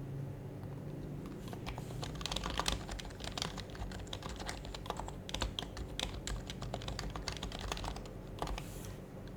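Typing on an HHKB Professional HYBRID Type-S keyboard, its dampened Topre keys clicking in quick, uneven runs. The typing starts about a second and a half in and stops near the end, over a steady low hum.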